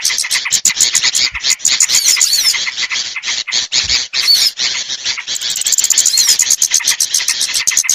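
Loud, dense chorus of small birds chirping and trilling rapidly and high-pitched, with short whistling notes mixed in: a bird-lure (pikat) recording meant to draw small birds down.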